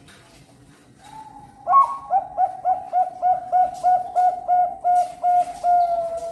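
Perkutut bangkok (zebra dove) singing: a soft opening coo, then a quick run of about a dozen short, clipped cooing notes at about three a second, ending on a longer drawn-out note.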